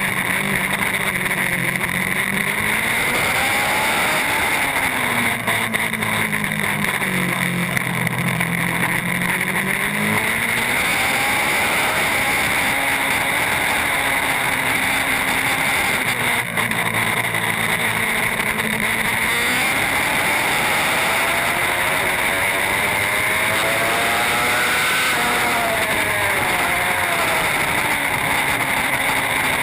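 Racing superbike engine at speed, its revs climbing and dropping again and again as it works through the gears, over a steady rush of wind noise.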